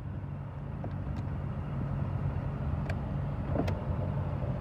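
HSV VF Clubsport R8's 6.2-litre V8 idling steadily, a low hum heard from inside the cabin as the engine warms up. Three faint clicks sound over it.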